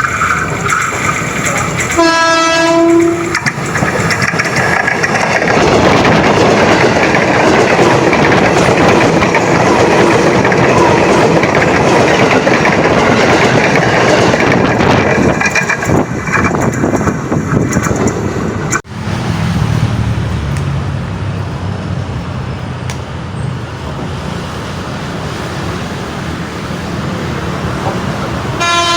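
Train sounding one short horn blast, then passing close by with a loud, steady rumble of wheels on rails. About two-thirds of the way through the sound drops sharply to a quieter rumble, and another short horn blast comes at the very end.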